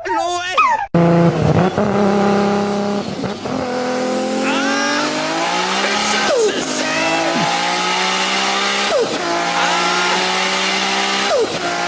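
Race-car engine sound accelerating through the gears: the pitch climbs steadily, then drops suddenly at each of about four shifts. Short rising squeal-like chirps come between the shifts.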